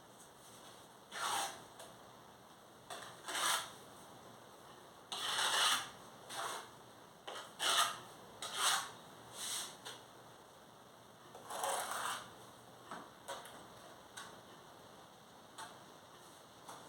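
Mason's trowel scraping and spreading mortar on brick in short, irregular strokes, about a dozen scrapes with brief pauses between them.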